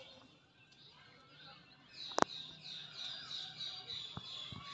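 Small birds chirping. Faint calls at first, then about halfway through a rapid run of repeated high chirps starts and keeps going. A single sharp click, the loudest sound, comes just as the chirping picks up.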